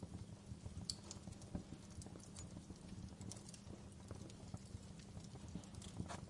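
Wood fire burning in a fireplace: a steady low rumble of flames with irregular crackles and pops, the sharpest a little under a second in and again near the end.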